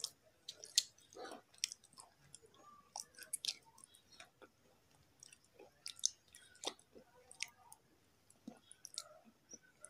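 Slate pencil being chewed close to the microphone: irregular sharp crunches and mouth clicks as the pencil is ground into a grey paste on the tongue.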